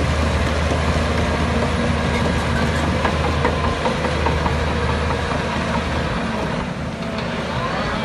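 Heavy diesel earthmoving machinery running steadily, a deep engine drone with short squeaks and clicks about three to four seconds in.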